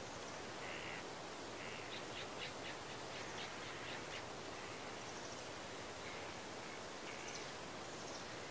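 Birds calling over a steady outdoor hiss: a few short calls, then a quick run of notes about two to four seconds in, and more scattered calls toward the end.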